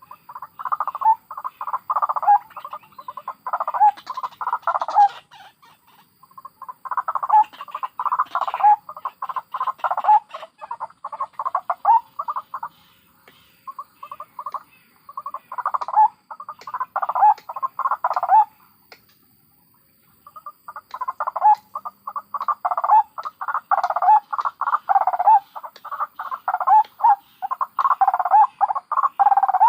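White-breasted waterhens (ruak-ruak) calling: bouts of rapidly repeated notes lasting a few seconds each, broken by short gaps, the longest about two seconds long some two-thirds of the way through.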